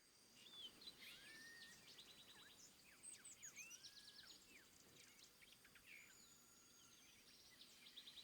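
Faint nightingale song: whistled rising and falling notes alternating with fast rattling trills of repeated notes.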